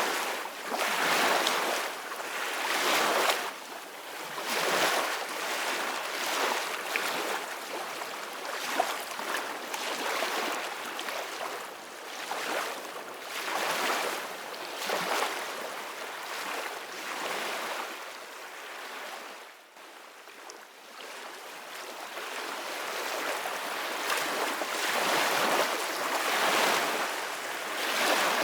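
Ocean waves breaking and washing on a shore: a continuous hiss of surf that swells and ebbs with each wave, easing off briefly about two-thirds of the way through before building again.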